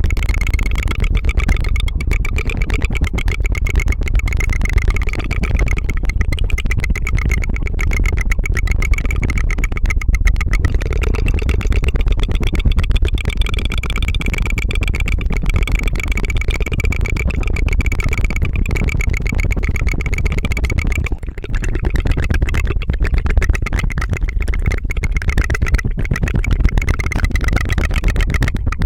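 Rapid, continuous tongue fluttering: an ASMR tongue trill that goes 'tu-tu-tu' like an aircraft engine, with a brief break about twenty seconds in.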